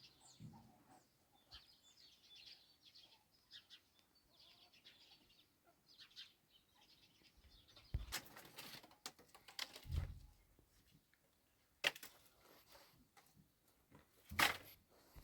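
Faint bird chirps scattered throughout, with three louder thumps about eight, ten and fourteen seconds in.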